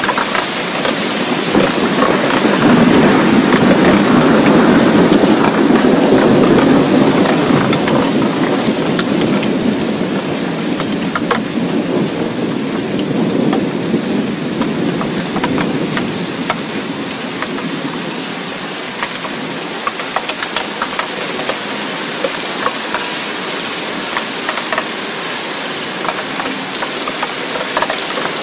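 Steady daytime rain, with many separate drops ticking sharply on a hard surface. A low rumble swells in during the first seconds and fades away before the middle.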